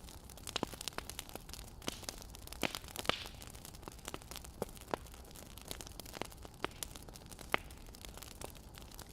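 Wood fire crackling: irregular sharp pops and snaps of varying loudness over a soft steady hiss.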